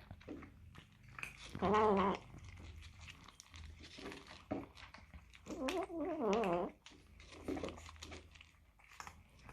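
A stray cat eating noisily, giving two wavering, moan-like vocal calls between bites, one about two seconds in and a longer one around six seconds, over quick clicks of chewing.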